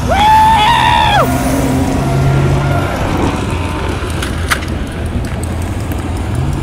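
Car engines running on a speedway oval, a steady low rumble under spectator noise. In roughly the first second a loud, held high tone rises, holds and falls away.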